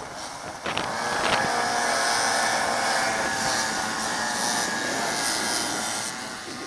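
Small racing minibike engines running at high revs. The sound swells about a second in, holds, then eases off near the end, as the bikes pass.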